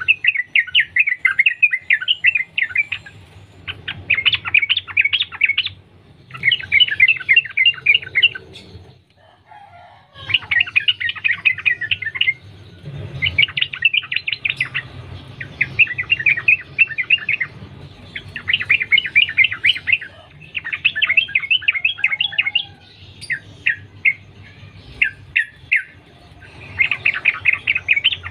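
Yellow-vented bulbul singing: fast, chattering bubbling phrases of one to two seconds each, repeated again and again with short pauses between them, the long run-on song prized by keepers.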